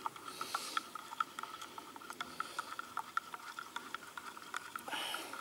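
Wood campfire crackling: scattered small pops and snaps over a faint steady tone, with a brief soft hiss near the start and again near the end.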